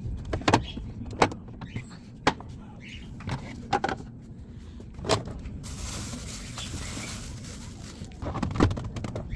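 Household containers and items being handled and set down while a fridge is emptied and cleaned: a series of separate knocks and clatters. There is a stretch of hissing noise about six to eight seconds in.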